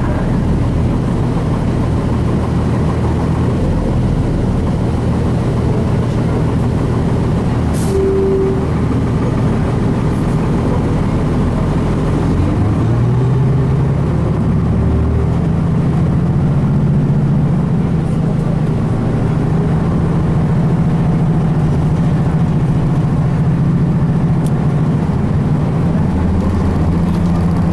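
Cummins ISC inline-six diesel of a 2002 Blue Bird transit bus running, heard from on board. The engine note rises about halfway through and then holds steady at the higher pitch.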